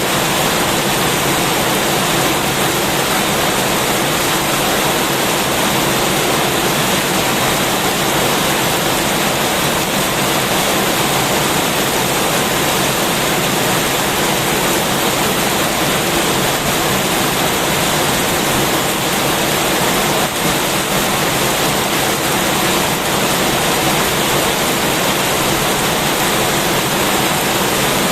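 Heavy rain falling steadily: a loud, dense, even hiss with no breaks.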